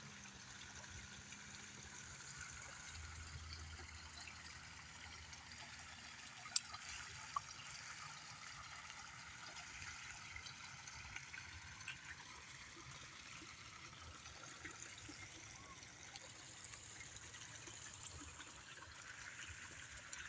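Faint, steady trickling of running water, with two sharp clicks close together about a third of the way in.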